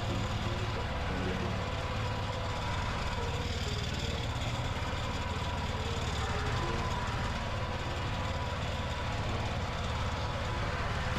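Mini tractor engine running steadily and loudly, with a constant low firing beat.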